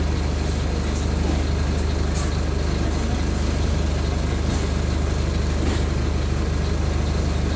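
Mercedes-Benz OF-1519 BlueTec 5 bus diesel engine running steadily at an even speed, a constant low drone that is most likely idle.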